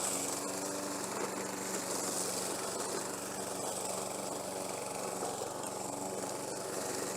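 Self-propelled, rear-wheel-drive walk-behind lawn mower running steadily at an even pitch as it is driven up a steep slope through high grass, front wheels lifted in a wheelie so the blade gives the grass a first cut from the top.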